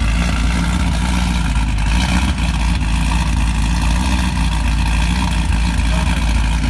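Procharger-supercharged 2009 Pontiac G8 GT's V8, built with aftermarket heads and cam and fitted with a 3-inch Solo exhaust, idling steadily with a deep exhaust rumble.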